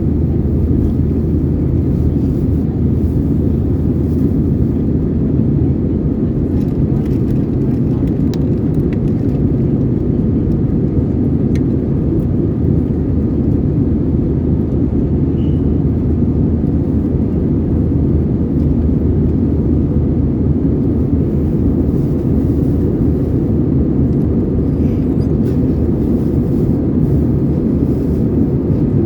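Steady, loud cabin drone of an Airbus A320-232 in its climb. The noise of its IAE V2500 engines and the rushing air is heard from a window seat inside the cabin.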